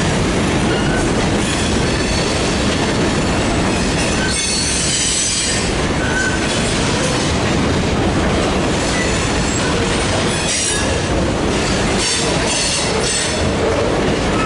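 Freight train rolling past, loud and steady, with steel wheels squealing against the rail at times: once about a third of the way in, and again toward the end.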